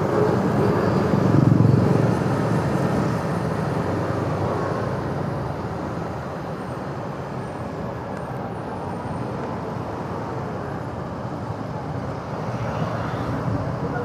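Motorcycle riding noise: engine and road rumble with wind, loudest in the first couple of seconds, then steady and slightly quieter.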